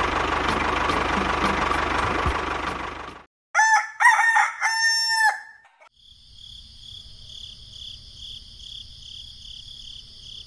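A motor running with a faint regular tick stops about three seconds in. After a brief gap, a rooster crows loudly. Then a high-pitched chirping pulses evenly, about three times a second.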